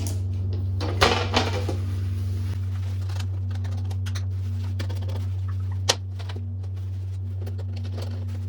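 A steady low hum, with a few light knocks and clatters of things being handled, one about a second in and a sharper one near six seconds.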